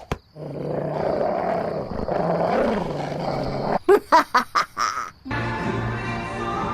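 Cartoon sound effects of a bird attacking: a rough, noisy scuffle, then a quick run of about six short sharp squawks near the middle. Music comes in about five seconds in.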